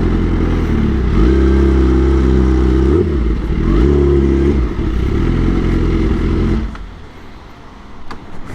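Kawasaki ZX-10R inline-four motorcycle engine running while riding, the revs dipping and picking back up a couple of times, then falling away sharply about two-thirds of the way through.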